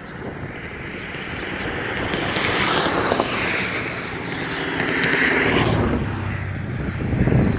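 Road vehicles passing close by: tyre and engine noise swells, fades a little, then swells again and falls away.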